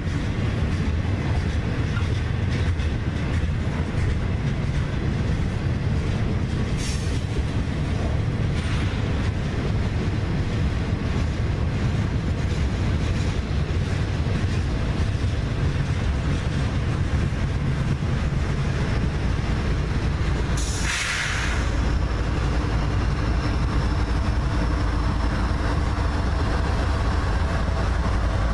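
Freight cars of a CSX manifest train rolling past on the rails, a steady heavy rumble of wheels and cars with some clickety-clack. A short hiss breaks in about two-thirds of the way through.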